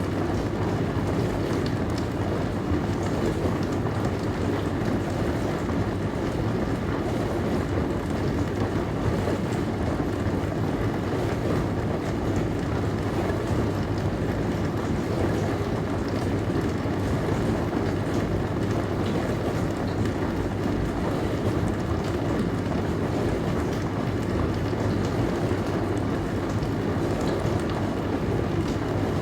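Dishwasher running through its wash cycle: a steady, even rushing hum that is heaviest in the low range and does not change.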